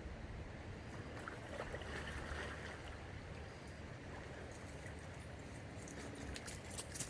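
Steady rush of flowing river water, with a few short sharp splashes or knocks near the end.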